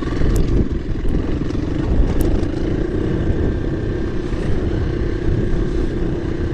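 KTM 350 EXC-F single-cylinder four-stroke dirt bike engine running at fairly steady revs while riding off-road, with a few sharp ticks in the first two seconds.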